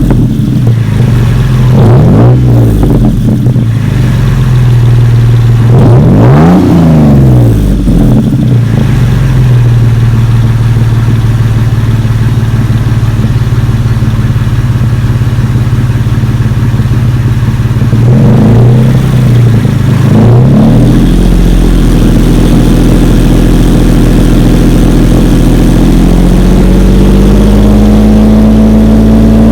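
Toyota FJ Cruiser's 4.0 L V6 exhaust through an aftermarket aFe Power muffler. It idles with short revs: one about two seconds in, a bigger one about six seconds in, and two more after about eighteen seconds. It then holds a steady, higher engine speed that climbs slowly near the end.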